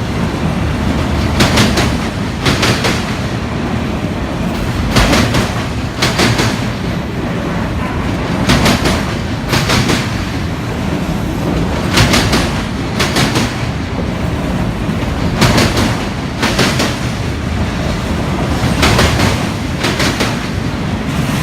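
Union Pacific autorack freight cars rolling past under a steady rumble. Their wheels clack over rail joints in pairs, a pair every few seconds.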